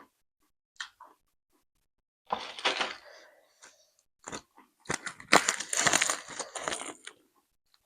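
Close-miked eating: crunchy bites and chewing in irregular bursts, with a long dense crunching stretch about five to seven seconds in.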